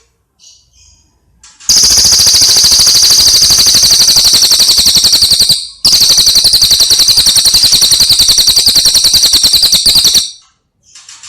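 A bird singing a loud, very fast trill of rapidly repeated high notes in two long runs of about four seconds each, with a brief break near the middle; fainter short calls come before and after.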